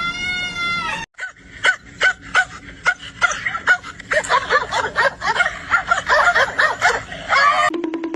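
A cat's long, drawn-out meow cuts off about a second in. It is followed by a dog's short, high yips and barks, a few a second, which come thicker and overlap from about halfway through.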